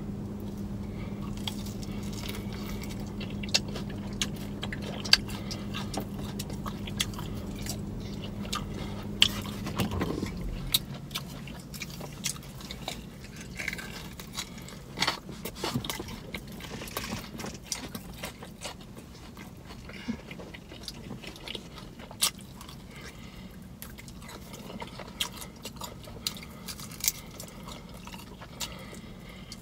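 Close-up mouth sounds of someone eating chicken wings: chewing, biting and lip-smacking, with many small wet clicks. A steady low hum under it stops about ten seconds in.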